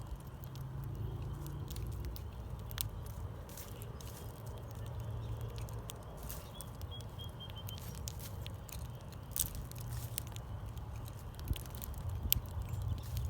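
Scattered small clicks and taps over a steady low rumble, with one short run of about five quick, high chirps from a bird about seven seconds in.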